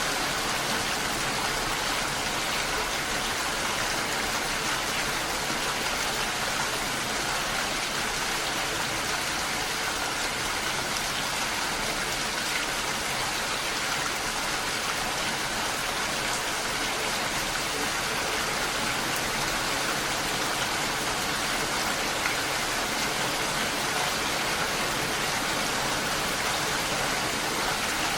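Steady heavy rain falling, an even hiss of many drops.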